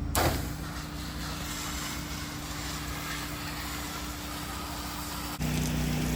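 8 GPM engine-driven pressure washer running steadily, with the hiss of water spraying from the wand. About five seconds in, the engine hum and hiss jump louder.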